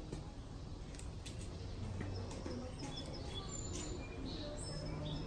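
Small birds chirping, a scatter of short high chirps mostly in the second half, over a steady low background rumble with a few faint clicks.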